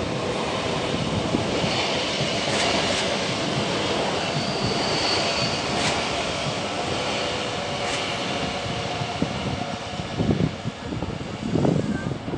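Double-deck electric commuter train running on the tracks, a steady rumble of wheels on rails with a few sharp clicks and a brief high-pitched squeal about five seconds in. Rougher gusts of noise come near the end.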